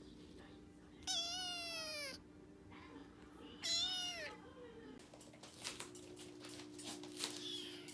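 Orange tabby kitten meowing twice: two drawn-out meows of about a second each, each falling in pitch at the end. A run of quick soft clicks follows in the last few seconds.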